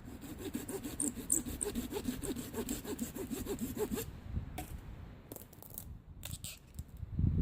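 Hand saw cutting through a springy branch with quick back-and-forth strokes, the blade rasping and squealing, for about four seconds before it stops; a few light knocks and a thump follow.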